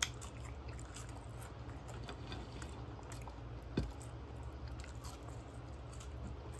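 Close-up chewing of seasoned sweet potato fries, with faint wet mouth sounds over a steady low hum. A single soft knock about four seconds in.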